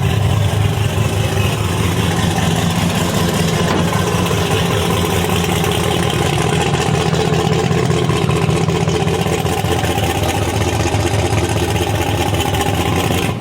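A large engine idling steadily with a deep, even drone that cuts off abruptly at the end.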